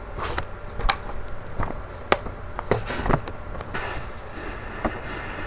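A handful of short, sharp clicks and knocks at uneven intervals, with a brief hiss of noise a little past the middle, over a low background hum.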